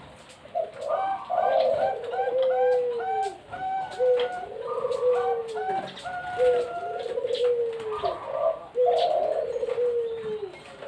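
Perkutut (zebra doves) cooing over one another, repeated phrases of short clipped notes ending in falling coos, with brief gaps near 3.5 s and 6 s.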